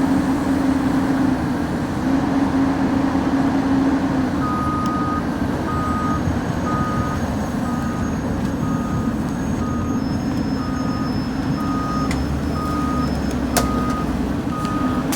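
Diesel engine of a heavy machine, most likely the stuck excavator, running steadily. About four seconds in, its motion alarm starts beeping about once a second, a sign that the machine is moving. A single sharp click comes near the end.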